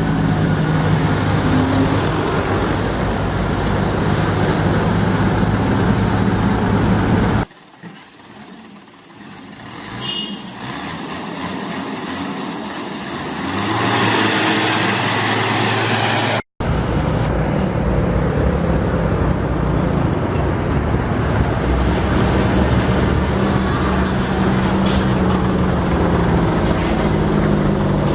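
Truck engines running under load with road noise as the trucks climb. The sound drops abruptly to a much quieter stretch about a third of the way in, builds again, then cuts straight back to the loud engine noise after the middle.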